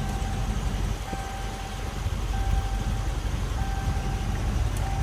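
A single-pitched electronic beep repeating about every second and a quarter, each beep about half a second long, over a steady low rumble.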